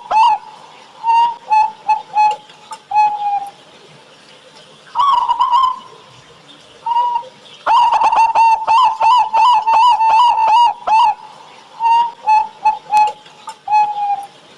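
Zebra dove (perkutut) singing its cooing song twice: a rapid string of notes, then a few spaced notes ending in a longer, slightly falling note. The voice is the full, thick kind prized in a 'gacor' local perkutut.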